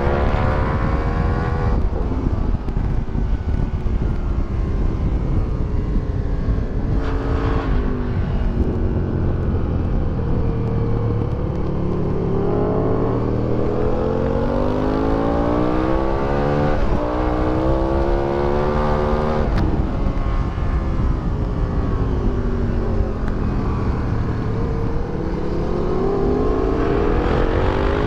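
2008 Aprilia Tuono 1000R's V-twin engine, with Akrapovic exhaust and velocity stacks, under hard track riding. Its pitch climbs under acceleration and drops sharply at upshifts, twice in quick succession near the middle, then falls away under braking before climbing again near the end.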